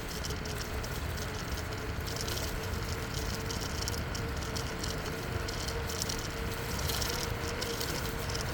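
Steady riding noise from a bicycle on the move: a low rumble of wind on the microphone and tyres on the trail, with light rattling and a faint steady hum underneath.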